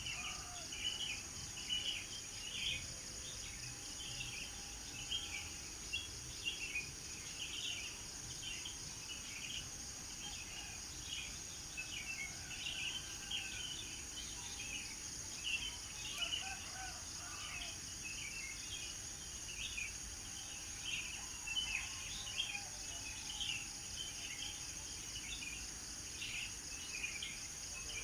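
Birds chirping in many quick, short notes, with now and then a lower call, over a steady high insect trill.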